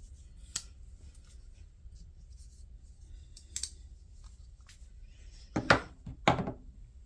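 Faint clicks and handling noise from folding pocket knives being handled, with two louder sharp clicks close together near the end.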